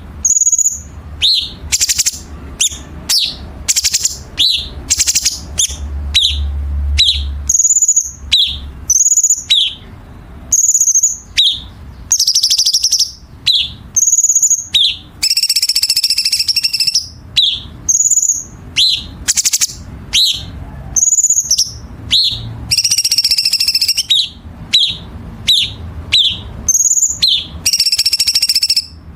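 Cucak cungkok songbird calling over and over: sharp, short calls at about one a second, broken by longer, dense rattling phrases, the harsh 'kasaran' fill notes.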